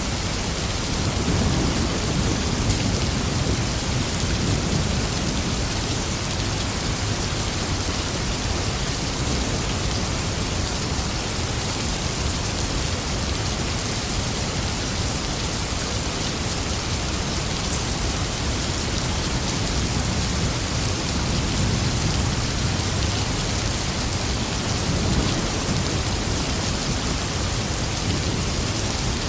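Steady rain falling, with low rolling thunder rumbling a second or two in and again past the middle.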